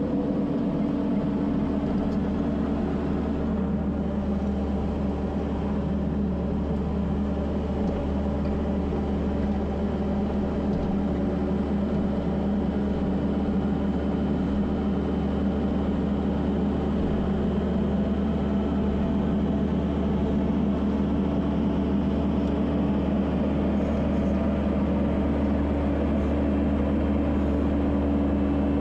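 Kubota SVL75-2 skid steer's diesel engine running steadily at a constant speed.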